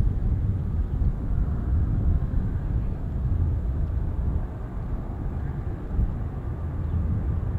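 Distant jet airliner taking off, heard as a low rumble under gusty wind buffeting the microphone.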